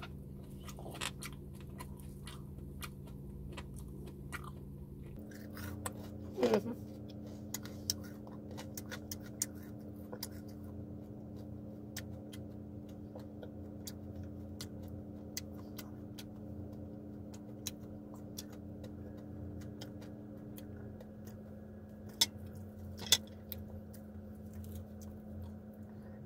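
Close-up mouth sounds of chewing and crunching crispy pata (deep-fried pork knuckle), with many small sharp clicks and a few louder knocks, over a steady low hum.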